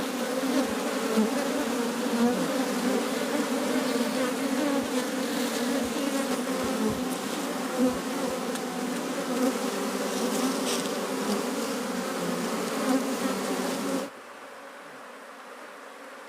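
Dense buzzing of a swarm of honey bees flying around a hive box, the loose workers searching for their queen after the colony's transfer into the box. About fourteen seconds in, the buzzing drops suddenly to a much fainter hum.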